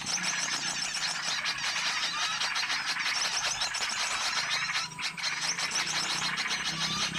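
Dense chorus of many small songbirds chirping and twittering over one another, a mixed bird-lure (pikat) recording meant to call in small wild birds. It runs steadily, with a brief lull about five seconds in.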